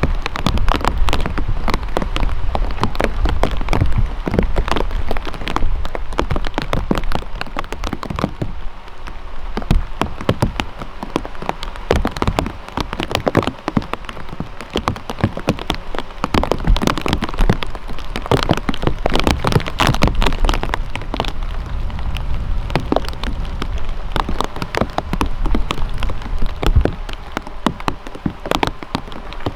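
Steady rain with many close, sharp raindrop hits pattering irregularly.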